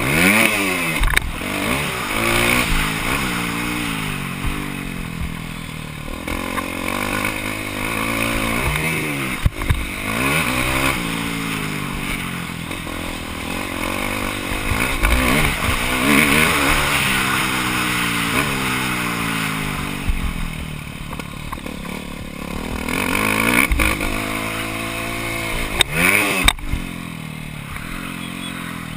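Motocross dirt bike engine heard on board, its pitch climbing and dropping again and again as it accelerates and shifts through the gears, with a few sharp clattering knocks from the bike.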